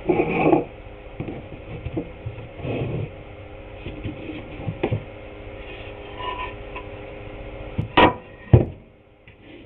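Irregular knocks and clatter of wooden boards being handled and set down, over a steady machine hum that stops near the end. Two sharp knocks just before the hum stops are the loudest.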